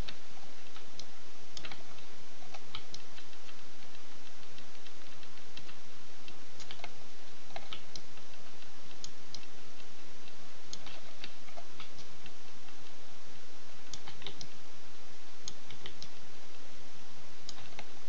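Irregular clicks of a computer mouse and keyboard, a few a second at most, over a steady microphone hiss.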